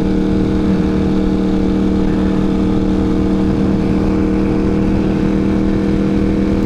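Ducati Panigale V4 engine through a Competition Werkes GP race exhaust, held at a steady cruise: an even, unchanging drone, with wind rushing underneath.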